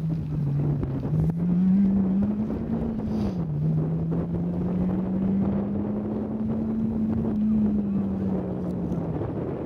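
Rally hatchback's engine running hard at distance, its note climbing for about three seconds, dropping sharply on a gear change, then holding steady before easing off near the end. Wind buffets the microphone.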